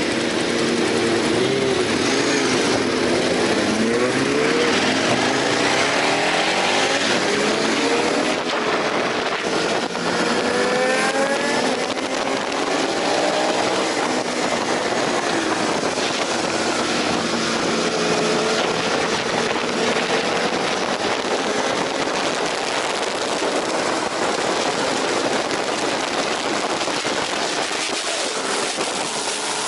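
Aprilia RSV 1000 Factory V-twin engine revving hard under acceleration, its pitch climbing and dropping back with each gear change, over a steady rush of wind noise.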